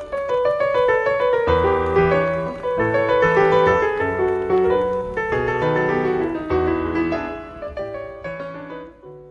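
Background piano music, a gentle flowing melody over a bass line, fading out near the end.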